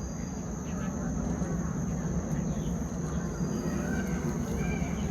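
Murmur of a visitor crowd with indistinct voices, over a steady high-pitched insect drone.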